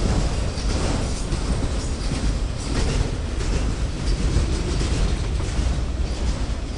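A train rolling by: a steady, heavy rumble with many quick clicks from the wheels on the rails.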